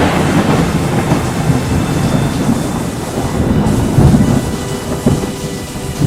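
Deep rumbling over a steady rushing hiss, swelling about four seconds in and again about five seconds in: a thunderstorm with rain.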